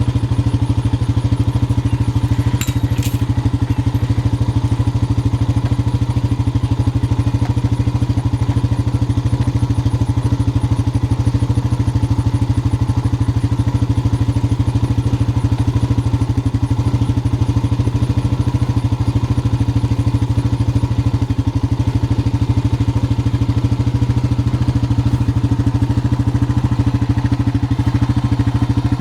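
Small gasoline engine of a farm utility vehicle running at a steady speed, with a brief rattle about three seconds in.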